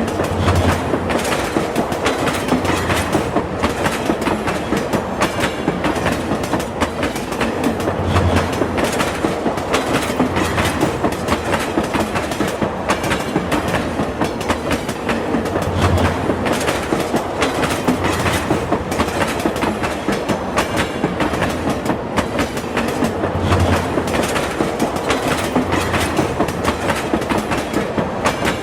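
Train running over the Bangabandhu Bridge, its wheels clattering steadily over the rail joints, with a low thud repeating about every seven to eight seconds.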